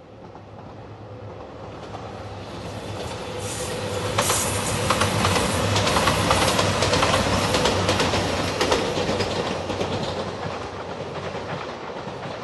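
JR Shikoku 2700-series diesel limited express train passing close by: its sound builds up, peaks about halfway through with a rapid clatter of wheels over rail joints over a steady low hum, then fades as it moves away.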